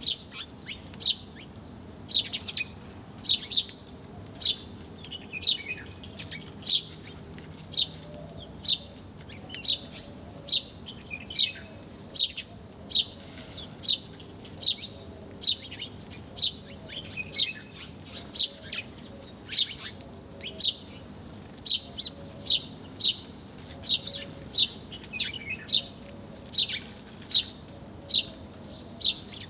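Small birds chirping: short, sharp, downward-sweeping chirps repeated about once a second, sometimes in quick pairs, with faint softer calls lower down.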